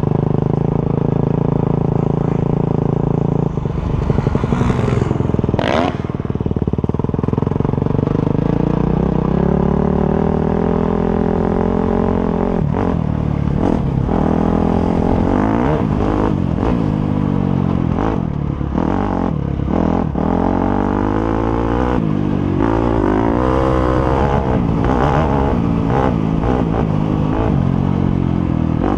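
Motocross motorcycle engines: a steady engine note for the first few seconds, then several bikes' engines revving up and down, rising and falling in pitch, with clattering mixed in.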